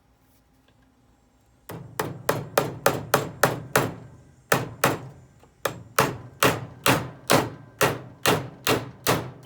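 A hammer driving a nail into wood with quick, light strikes, about three a second, starting after a short quiet moment and pausing briefly twice.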